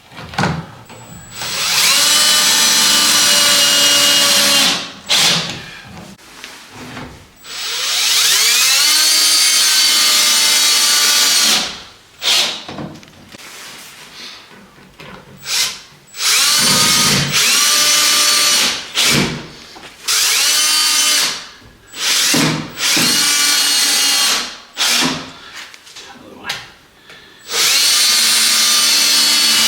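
Power drill running in repeated bursts, each spinning up in pitch and then holding steady: two long runs in the first twelve seconds, then several shorter ones.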